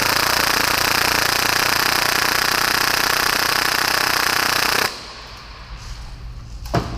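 Full-auto Tokyo Marui Hi-Capa airsoft pistol firing continuously at about 30 rounds per second, a steady rapid buzz of shots that cuts off suddenly about five seconds in, when the gun just stops shooting. A single sharp snap follows near the end.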